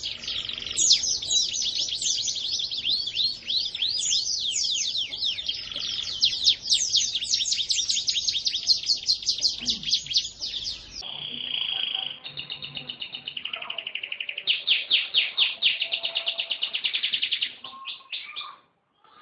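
Domestic canary singing continuously: a long run of rapid, sweeping chirps. Partway through it switches abruptly to held whistled notes and a fast rolling trill, ending near the close.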